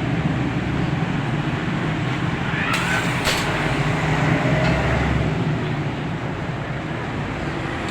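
Steady motor-vehicle engine hum with a couple of sharp clicks about three seconds in.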